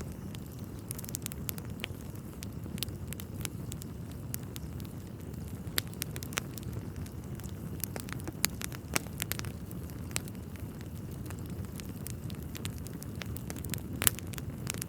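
Wood fire crackling in a fireplace: a steady low rush from the burning logs with scattered sharp pops and snaps, one louder pop near the end.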